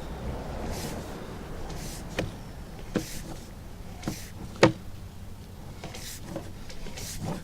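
Sewer inspection camera push cable being fed through the line, with a few sharp knocks and clicks, the loudest about four and a half seconds in, over a low steady background noise.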